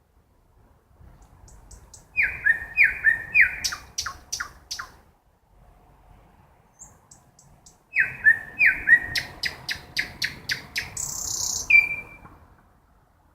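Nightingale singing at night: two song phrases with a pause between. Each opens with a few slurred whistled notes and runs into a fast series of sharp clicking notes; the second ends with a harsh rattle and a short clear whistle.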